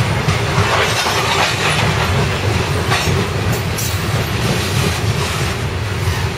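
CSX coal train rolling past at close range: a loud, steady, deep noise of wheels on the rails, with a few brief higher scrapes about three to four seconds in.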